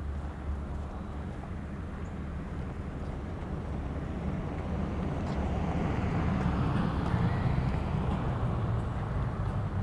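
A car driving past on the street, its engine and tyre noise swelling to a peak about two-thirds of the way through and then fading, over a steady low rumble of traffic.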